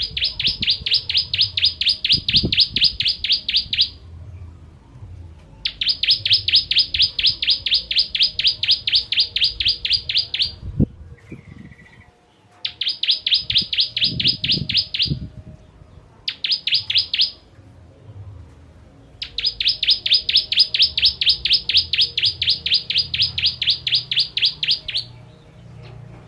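Ciblek kristal (a prinia) singing in five bouts of fast, evenly repeated high-pitched notes, several a second. Each bout lasts from one to about six seconds, with short pauses between them.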